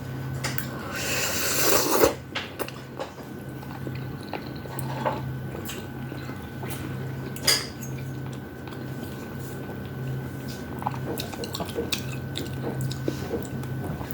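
Eating noises from a bowl of udon noodles: a wet slurp building up about a second in, then scattered sharp clicks of utensils against dishes, the loudest two near two seconds and seven and a half seconds in. A steady low hum runs underneath.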